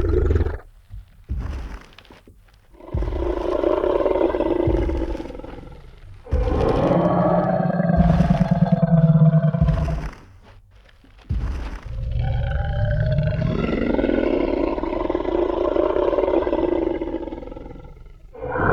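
Sound-effect Tyrannosaurus rex roaring: three long, deep roars lasting several seconds each, with short pauses between them. A few short low thuds come in the first couple of seconds.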